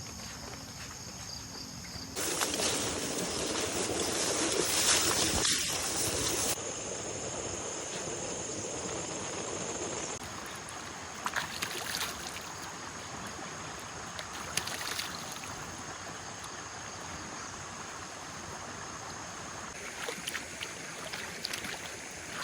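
Water sloshing and trickling, as from wading in shallow water, with a louder rush for a few seconds near the start and scattered small splashes after. Insects chirr steadily throughout.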